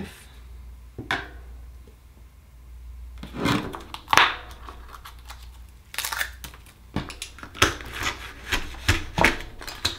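Akoya oyster shell and a metal tool clicking and scraping as the oyster is handled and pried open: a scatter of sharp clicks and rubs, coming thick and fast over the last four seconds.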